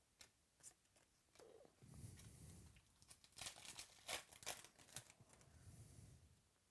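A trading card pack's foil wrapper being torn and crinkled open, with a few light clicks before it.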